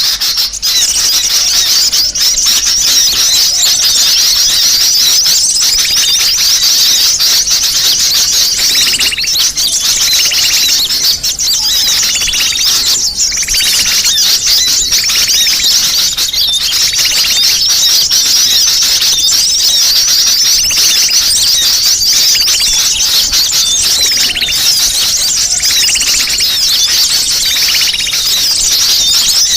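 Sunbirds calling in a dense, unbroken chorus of high-pitched chirps and twitters, with short trills a little lower in pitch coming in several times. This is a bird-lure recording meant to draw in small birds.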